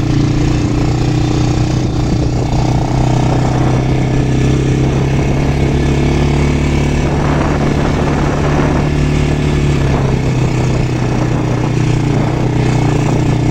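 Quad bike engine running steadily while riding, its pitch shifting slightly up and down with the throttle.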